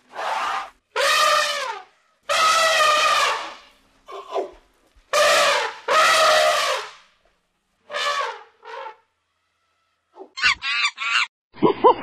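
Asian elephant trumpeting: a string of about eight trumpet calls, each half a second to a second and a half long, with short gaps between, the last few shorter. Shortly before the end, a few short, choppy calls of a different kind.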